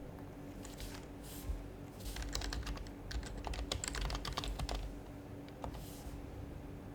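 Typing on an HHKB Professional HYBRID Type-S keyboard with silenced Topre capacitive switches. A few scattered soft keystrokes come first, then a fast run of keystrokes from about two seconds in until nearly five seconds.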